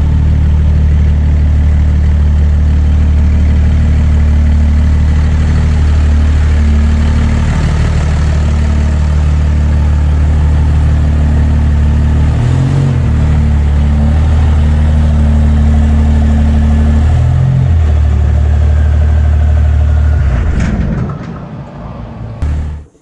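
Diesel truck engine running loud and steady, its pitch dipping briefly twice. It fades near the end and then cuts off.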